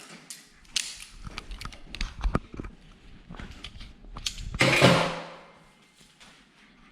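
Vise-Grip locking pliers being unclamped and taken off: scattered metal clicks and knocks, then a louder clatter lasting about half a second just before five seconds in.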